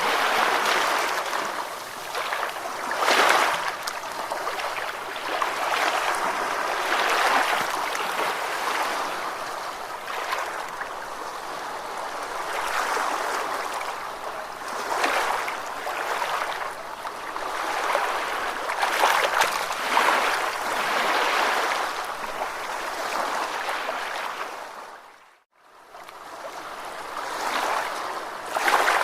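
Ocean waves washing and breaking, a steady rush that swells and eases every few seconds. Near the end the sound dips briefly to near silence and comes back.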